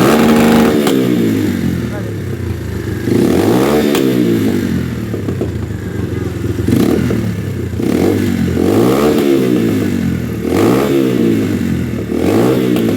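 Motorcycle engine revved hard over and over, its pitch climbing and falling back about six times in a row, each blip pushed up toward the rev limiter.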